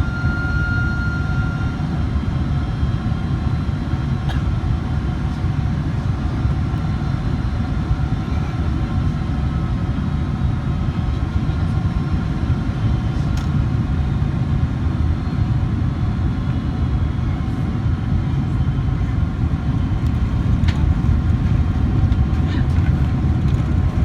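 Steady rumble of a jet airliner heard from inside the passenger cabin, engine and airframe noise during the landing. A brief high tone sounds in the first couple of seconds.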